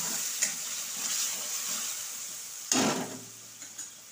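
Chopped tomatoes and green chillies sizzling in hot oil in a kadai while a spatula stirs and scrapes them. A single sharp knock comes about two-thirds of the way in. After it the stirring stops and the sizzling goes on more quietly.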